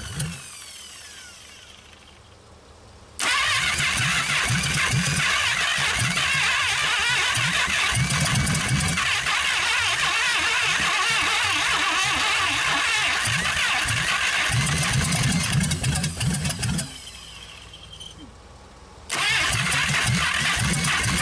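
A 1956 Packard 374 V8 firing on its first start in years, running unevenly in spurts. It dies just after the start and winds down, catches again about three seconds in and runs for some thirteen seconds, dies once more, and restarts near the end.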